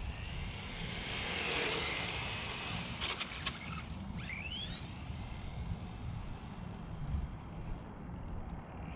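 Electric RC touring car (Tamiya TA05 chassis) whining as it accelerates hard, the pitch climbing as it spins up. A second rising whine follows about four seconds in.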